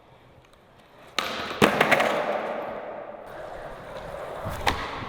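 Skateboard on flat pavement during a flip-trick attempt: the wheels start rolling about a second in, then sharp clacks of the tail popping and the board hitting the ground, and the rolling fades. More board clacks come near the end.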